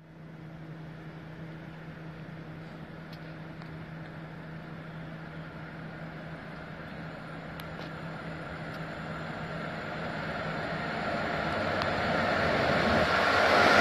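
Approaching freight train on the through track, its rumble growing steadily louder over the second half, over a steady low hum.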